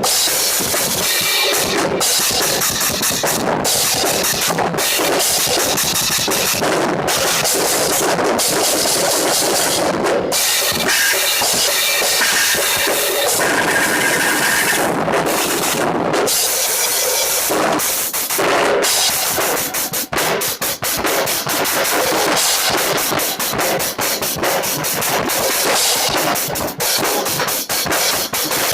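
Drum kit played hard and continuously, cymbals ringing over the drums, with a stretch of very fast, even strokes in the last third, picked up by a tablet's built-in microphone.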